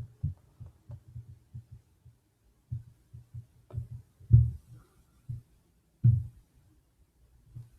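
Soft, irregular low thumps and taps of hand and pen work on a desk, the louder ones about four and six seconds in.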